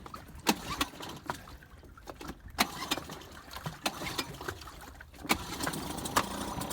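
Small outboard motor on a dinghy being pull-started: scattered sharp clacks, then the engine catches about five seconds in and runs steadily.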